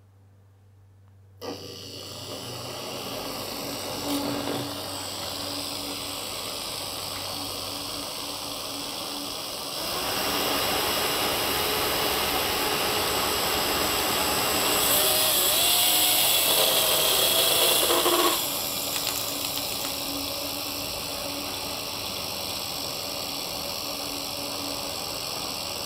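Electric motor driving a large 3D-printed fan rotor starts up about a second and a half in and runs with a steady whirr. About ten seconds in it speeds up and gets louder, then drops back to a lower speed near eighteen seconds and runs on steadily.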